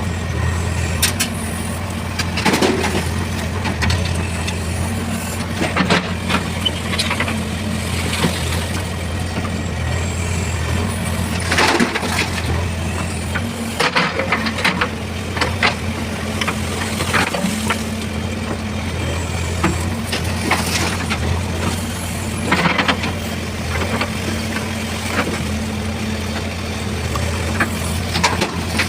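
Diesel engine of a JCB 3DX backhoe loader running steadily under work, with scattered knocks, rattles and hisses from the loading work throughout.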